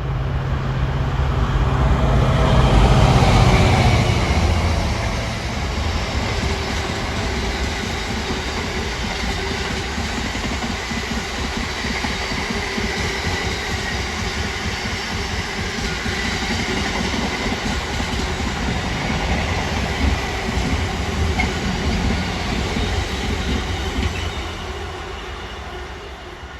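Intermodal freight train passing: the diesel locomotive is loudest in the first few seconds, then a long rake of container wagons rolls steadily by, fading away near the end.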